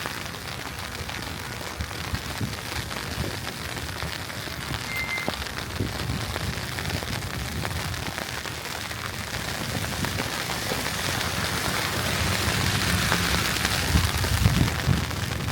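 Steady wet hiss of a slushy city street in falling snow. It swells over the last few seconds and takes on a low rumble.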